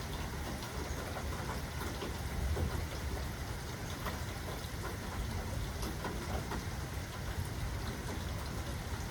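Steady rain falling, with individual drops ticking throughout over a constant low rumble that swells slightly about two and a half seconds in.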